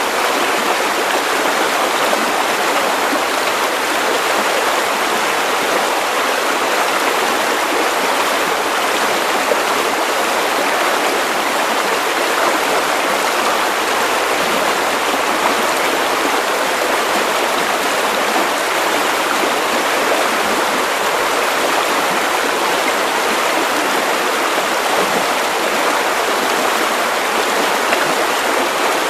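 Steady white noise for sleep: an even, unbroken hiss at a constant level, with little in the low bass.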